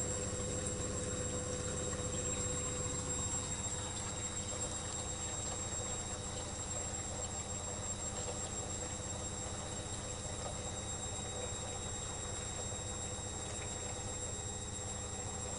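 Electrolux EWS 1045 front-loading washing machine running mid-wash: a steady low hum with thin high steady whines over it, easing off slightly about four seconds in.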